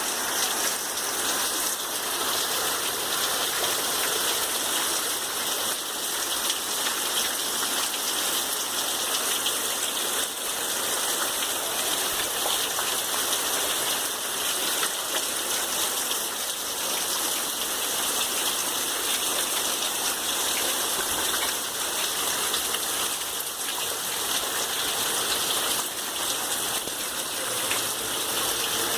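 Heavy rain falling steadily, a constant hiss with no pauses.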